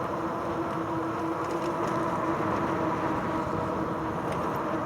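RadRover 5 fat-tire e-bike riding along a paved trail: steady rolling tire and wind noise with a steady hum, which fades about three and a half seconds in.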